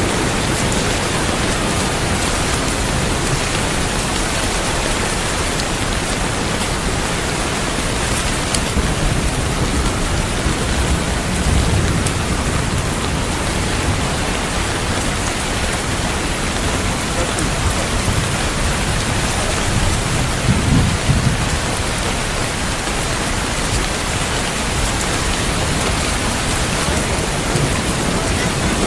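Steady heavy rain with low thunder rumbling twice, about a third of the way in and again after about two-thirds.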